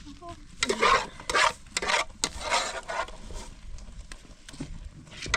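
A run of short scraping strokes, about five in the first three seconds, with a couple of sharp clicks among them, then quieter until another stroke near the end.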